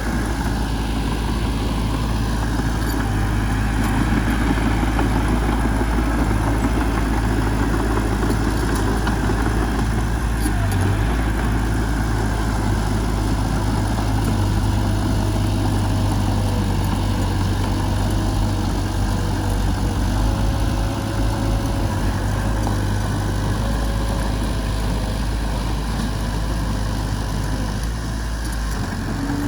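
Heavy machine's diesel engine running steadily at low revs, an even low hum with no breaks.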